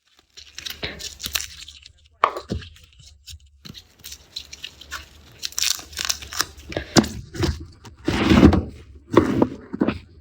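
Garlic being peeled by hand: dry papery skins crackling and tearing off the cloves in irregular bursts, with sharp cracks. The loudest tear comes about eight seconds in.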